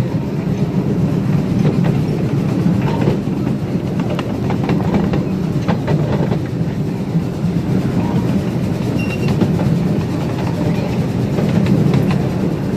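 Train cars rolling along the track, heard from on board: a steady rumble of wheels on rails with scattered clicks over rail joints.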